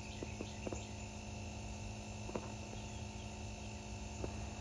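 DeWalt power box's built-in tire inflator running with a steady electric hum while it pumps up a tractor tire, with a few faint clicks.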